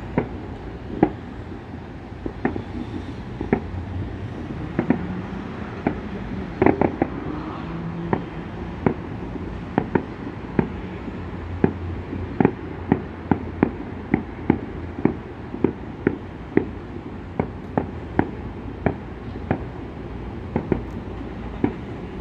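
Fireworks display going off: a long run of sharp bangs, about one to two a second and spaced unevenly, over a steady low rumble.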